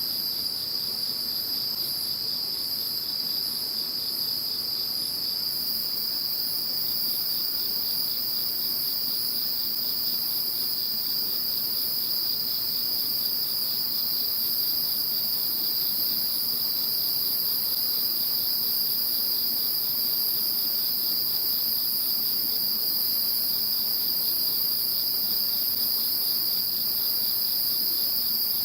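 Chorus of crickets and other singing insects, calling without a break: one steady high trill with a shriller, higher one over it, and at times a faint fast pulsing just beneath.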